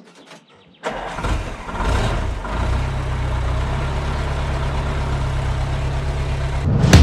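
Willys Jeep engine starting: a short stretch of cranking, then it catches about a second in, revs up a couple of times and settles into a steady idle. Drum-led music comes in near the end.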